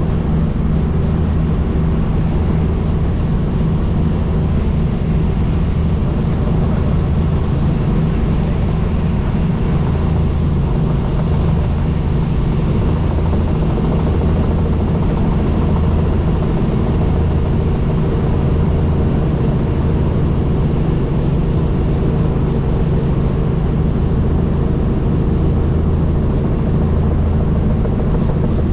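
Helicopter in flight: steady drone of the rotor and engine, with a low, gently pulsing beat from the blades.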